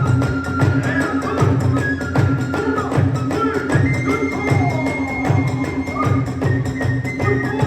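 Kagura hayashi accompaniment: a taiko drum beating about twice a second under a high bamboo flute melody of long held notes.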